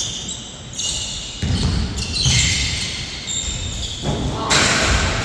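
A basketball bouncing on an indoor court, with several thuds. Shoes squeak sharply on the floor during the first few seconds of play.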